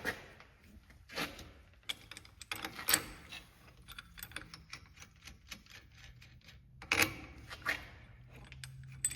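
Metal tool clicking and clinking as a bolt-and-sleeve press tool is worked to slide an STI steering rack bushing back into position. Runs of quick clicks, typical of a ratchet, with a few louder clinks.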